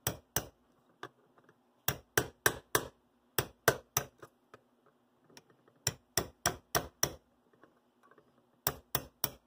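Small hammer lightly tapping a metal punch, in quick runs of two to five sharp taps with short pauses between, to drive the motor down out of a model locomotive's frame.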